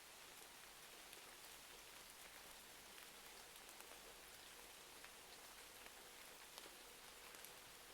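Faint rain with a crackling fireplace: a steady hiss of rain with scattered small ticks and crackles.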